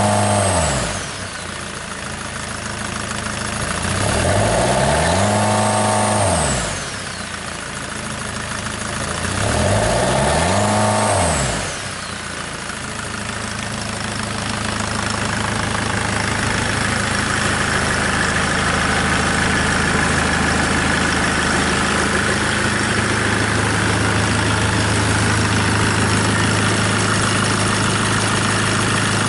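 SsangYong D20DT 2.0-litre four-cylinder turbodiesel running outside the car, revved up and let fall back three times in the first twelve seconds. Each rev carries a high whistle that rises and falls with it. The engine then idles steadily.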